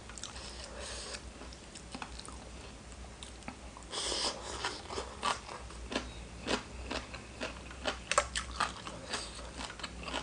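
Close-miked eating sounds: irregular biting and chewing of spicy Thai seafood salad, with sharp crunches and clicks, the loudest burst about four seconds in.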